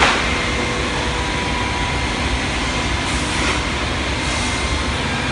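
Steady mechanical running noise with a faint hum, from an industrial automatic panel saw's motors and fans running in the workshop, with a brief louder swell right at the start.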